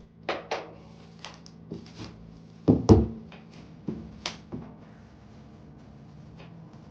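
Irregular knocks and clicks, as of objects being handled and set down, with two heavier thuds close together about three seconds in, over a faint steady hum.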